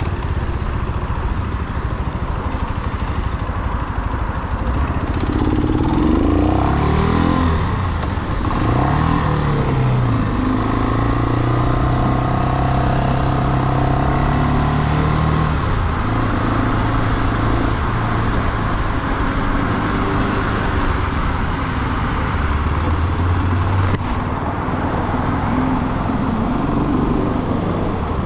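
Brixton Cromwell 250's single-cylinder engine under way: it revs up in rising sweeps about five to nine seconds in, holds a steady pitch for several seconds, then eases off near the middle and runs on at a lower rumble.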